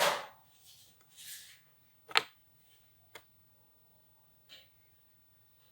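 A few sharp clicks in a quiet room: a loud one about two seconds in, a softer one a second later, and a faint one near the end, with a short soft rustle near the start.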